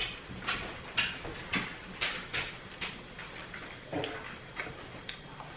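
Close-up chewing of a crunchy Doritos taco shell: short crisp crunches about twice a second, spacing out in the second half.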